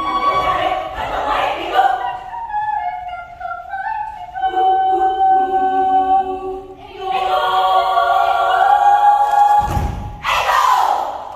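Children's choir singing in harmony, holding long chords that thin out and then swell to a full sound. A low thud comes near the end, followed by one last loud sung burst.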